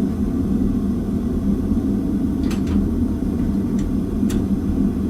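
Gas forge burner running with a steady low roar while the forge warms up, with a couple of faint clicks about halfway through and near the end.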